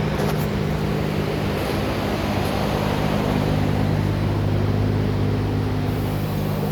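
Ford 5.4-litre V8 engine idling steadily.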